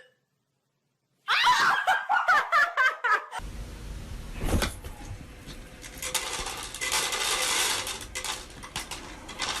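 A person laughing in quick, choppy bursts for about two seconds. It cuts to clattering and rattling with a heavy thump, and the clattering grows busier toward the end.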